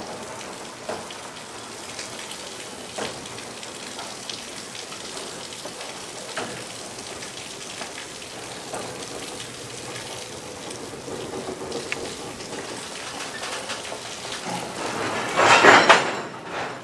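A slow-moving freight train of loaded flatcars rolling past over a steady rain-like hiss, with wheels clicking over rail joints every couple of seconds. A short, louder hiss comes near the end.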